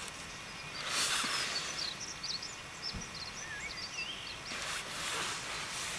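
Small birds singing, a run of quick chirps and warbles, with two short rushing swells of noise, one about a second in and one near the end, and a single soft knock in the middle.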